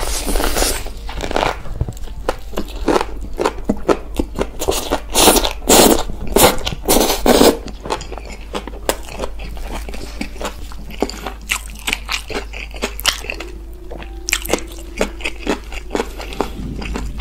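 Close-miked eating: biting into and chewing kimbap wrapped in green onion kimchi, with wet crunching and smacking that is loudest in the first half. Later the chewing gives way to quieter, sparser mouth clicks.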